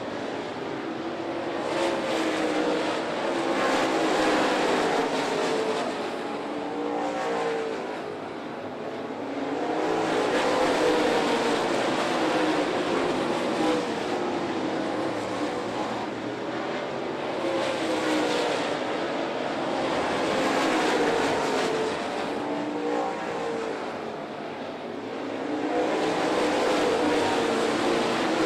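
A field of dirt late model race cars running laps at racing speed, their V8 engines swelling and fading several times as the pack comes around and passes.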